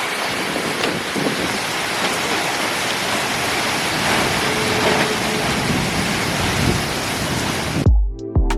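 Heavy hurricane rain pouring down steadily. About a second before the end it cuts off abruptly, and music with plucked notes takes over.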